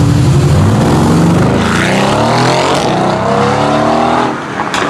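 Mercedes-AMG car engine running with a low steady note, then accelerating hard from about a second and a half in, its pitch rising for over two seconds. Near the end the sound drops away suddenly, with a sharp tick just after.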